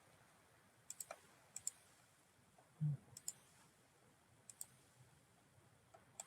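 Computer mouse button clicks, mostly in quick pairs, about five times spaced through a quiet room, with one short low sound near the middle.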